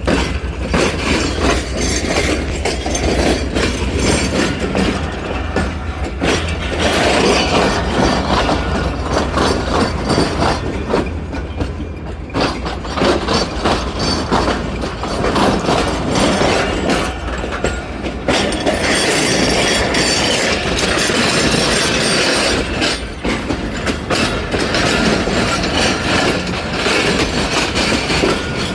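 Passenger train cars rolling past as the train pulls into the station, their wheels clattering over rail joints and points in a dense run of clicks. A low rumble in the first half fades out.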